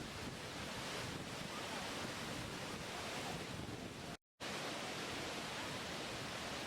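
Steady rushing water, an even hiss with no swells, broken by a brief cut to silence about four seconds in.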